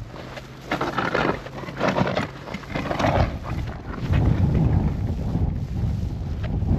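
Footsteps crunching in snow, several steps in a row. About four seconds in, a loud low rumble of wind buffeting the microphone sets in.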